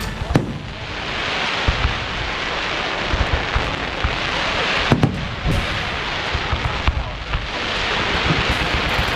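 Fireworks going off: sharp bangs about half a second in and again about five seconds in, over a hiss that swells and fades.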